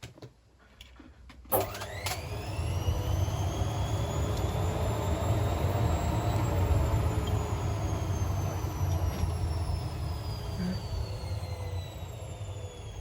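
Indesit IWC61651 washing machine's motor and drum spinning up after a click, with a whine that rises for a few seconds over a low hum, then slowly falls as the drum winds down.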